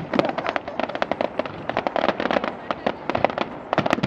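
Aerial fireworks display going off in a dense barrage: many sharp bangs and crackling reports a second, overlapping without a break.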